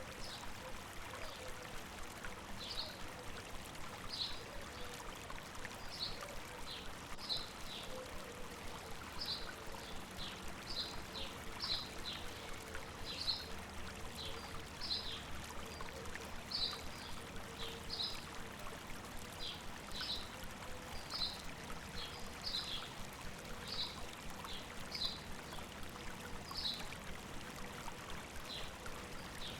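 A river or stream babbling steadily, with a bird repeating short, high chirps about once or twice a second over it.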